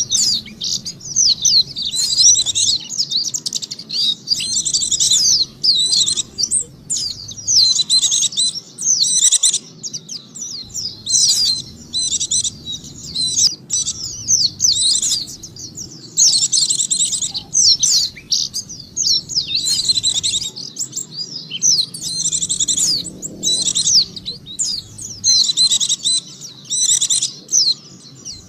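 White-eye (pleci) song: rapid, high twittering phrases, each about a second long, repeated with short gaps. It is played as a lure call to draw in wild white-eyes.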